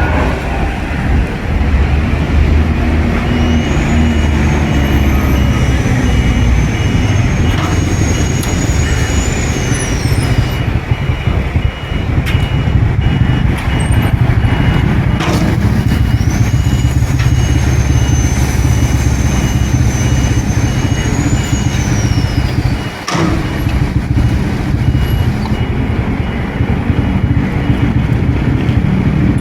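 Pedestrian crossing signal at a traffic light beeping at a steady, even rate at one high pitch over loud road traffic. Two long, high whistling tones rise, hold and fall away during it.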